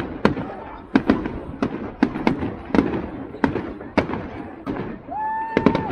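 Fireworks going off in quick, irregular bangs, about two a second. Near the end a whistle rises and holds briefly.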